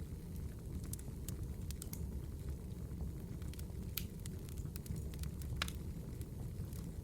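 Burning firewood crackling, with a steady low rumble and scattered sharp pops. Two louder pops come about four and five and a half seconds in.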